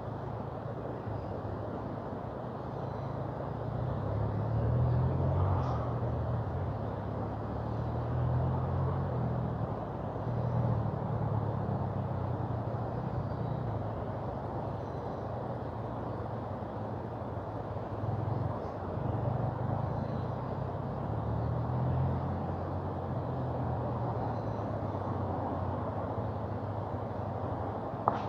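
Steady rushing of a mountain river, with a low rumble that swells and fades every few seconds and one sharp crack near the end.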